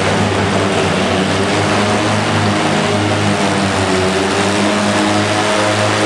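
Antique tractor engine running loud and steady, a continuous low drone with its pitch holding nearly level.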